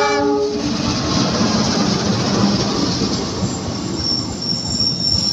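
A diesel locomotive's horn cuts off about half a second in as the passenger train passes close by, followed by the steady rumble of the coaches' wheels on the rails. About four seconds in, a thin, high wheel squeal begins.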